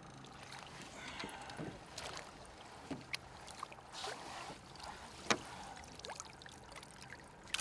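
Water sloshing and lapping beside a river boat, with scattered light knocks and clicks.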